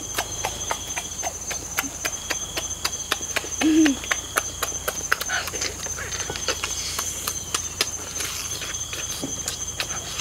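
Wet chewing and lip-smacking, many irregular sharp clicks, as roasted chicken is bitten and eaten with the hands, with a short hummed "mm" about four seconds in. A steady high-pitched whine sits behind it.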